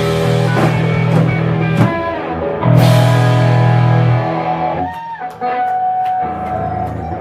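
Live punk rock band: loud distorted electric guitar chords crash out with drum and cymbal hits, then the sound thins and a single guitar note is left ringing as the song comes to its end.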